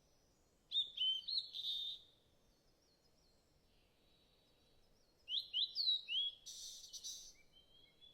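Bird calls in two bouts of quick, high chirps that each drop sharply in pitch: one bout about a second in and one about five seconds in. The second bout ends in a short rasping hiss. Fainter thin birdsong runs behind.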